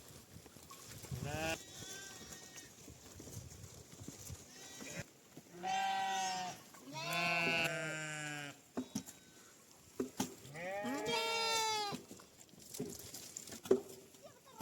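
Sheep bleating, several separate calls: a short one, then two long bleats in quick succession, then another long bleat near the end.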